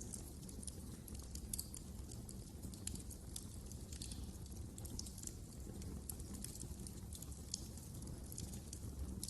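Fire in a fireplace crackling: many irregular sharp pops and snaps over a low, steady rumble of the flames.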